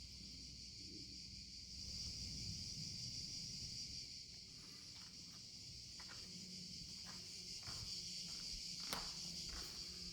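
Footsteps on a forest path, short crunches about twice a second starting about four seconds in, over a steady high-pitched insect chorus.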